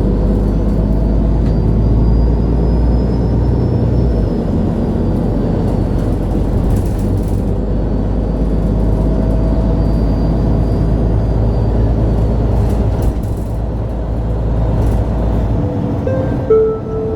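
Interior sound of a MAN A23 Lion's City G articulated city bus under way: steady diesel engine rumble with a faint high whine that rises and falls. Near the end the engine eases off and a brief two-note chime sounds.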